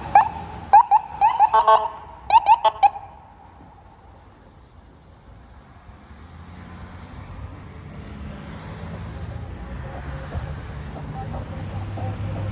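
A small dog yapping in a quick run of sharp, high barks for about the first three seconds. Then a heavy vehicle engine rumbles low and grows steadily louder as a fire apparatus draws near.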